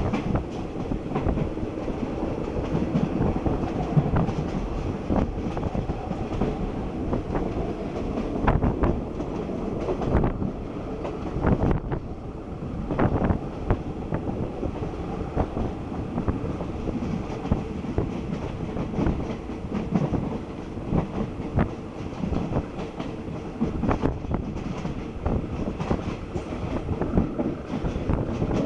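Passenger train carriage running uphill, heard through an open window: a steady rumble of the wheels on the rails with frequent clacks and knocks over the rail joints.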